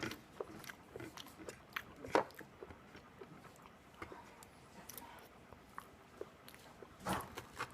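Close-up chewing and biting of waffles: scattered small mouth clicks, with a sharper click about two seconds in and a short louder sound near the end.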